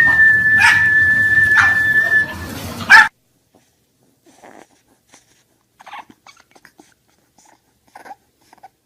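A dog's long, high-pitched whine, held on one steady note for about three seconds, cut off by a sharp click. Only faint small noises follow.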